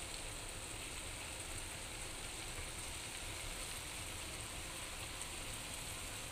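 Grated carrots sizzling steadily in a pan as a lump of desi ghee melts into them.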